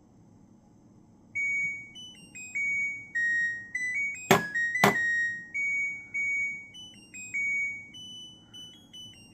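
LG washing machine playing its electronic end-of-cycle melody, a tune of clear beeping notes that starts about a second and a half in, after a pump-out cycle finishes. Two sharp clicks sound in the middle of the tune and are the loudest thing in it.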